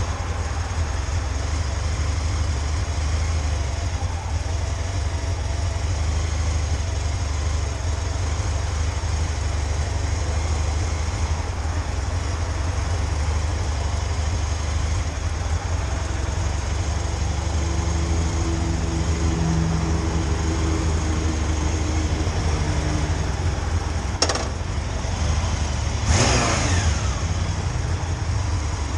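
Motorcycle running at road speed, heard as a steady low rumble. It is broken by a sharp click about 24 seconds in and, soon after, a brief louder rush that falls in pitch.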